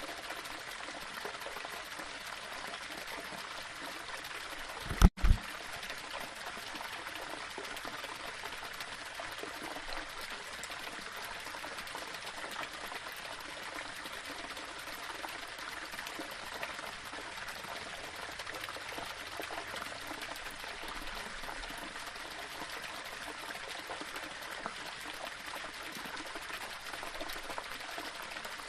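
Small waterfall trickling and splashing over rocks: a steady rush of water. About five seconds in, a brief, loud, low double thump stands out well above the water.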